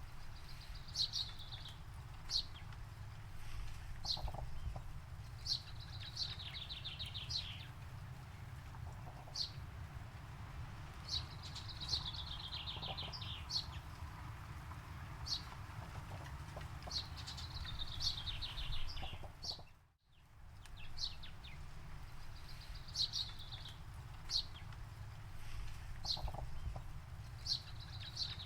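Songbirds singing: short, sharp high notes repeated every second or two, and every few seconds a rapid trill of about a second that falls in pitch, over a steady low rumble. The sound fades out and back in briefly about two-thirds of the way through.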